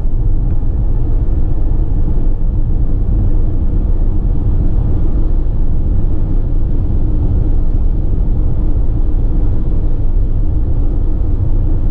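Steady low rumble of engine and road noise heard from inside the cab of a 2016 Ford Transit tipper truck cruising at speed.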